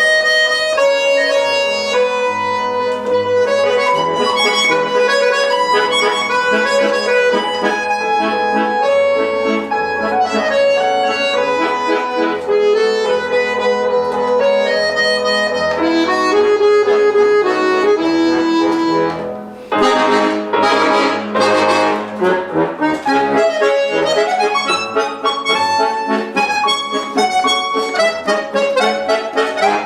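Accordion playing a waltz melody in sustained chords, with piano accompaniment. A brief drop in level about two-thirds through, then a denser, busier passage of quick runs.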